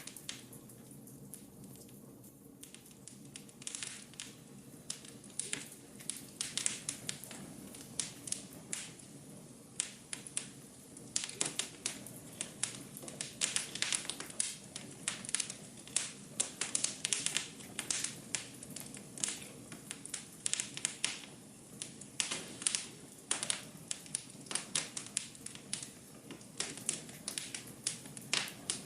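Wood fire crackling in a fireplace: irregular sharp pops and snaps over a low steady hiss of burning, sparse for the first few seconds and then more frequent.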